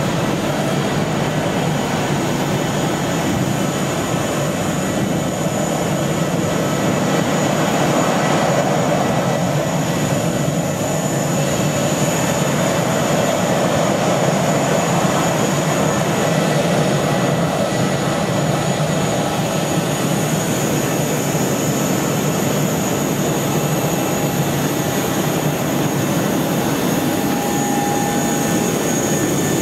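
Steady jet aircraft noise, an even rushing hum with faint high whining tones held through it.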